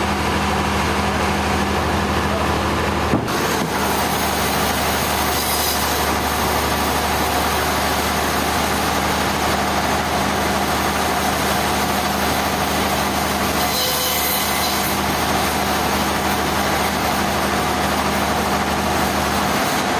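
Heavy machinery engine running steadily with a low hum, and a short click about three seconds in.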